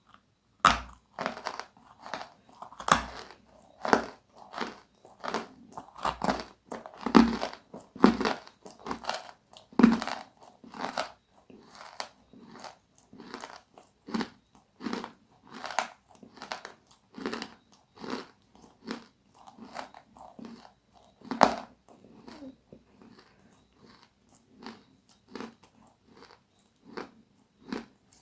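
Close-miked biting and chewing of crunchy food: a run of loud, crackly crunches about two a second, the hardest in the first ten seconds and one sharp bite about 21 seconds in, then softer chewing toward the end.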